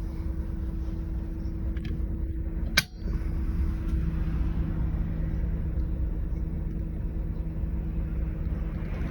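Scania 113 bus's diesel engine running steadily with a low rumble and a steady hum. A single sharp click about three seconds in.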